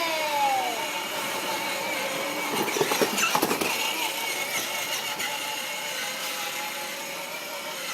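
Child's quad bike running with a steady whine, with a short burst of clattering about three seconds in.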